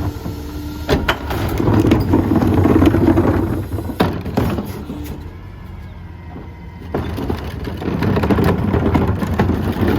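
Mack MRU McNeilus rear-loader garbage truck's diesel engine running with a low rumble that swells louder twice, with sharp clanks about one, four and seven seconds in.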